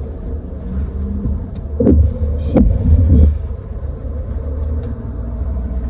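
Low rumble of a car heard from inside the cabin, with a louder stretch of pitched, sliding sounds about two to three seconds in.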